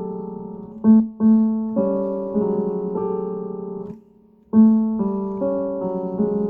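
Piano keyboard playing slow held chords in a low-middle register, meant to sound scary, each new chord struck over the ringing of the last. The playing stops briefly about four seconds in, then the phrase starts again with a loud chord.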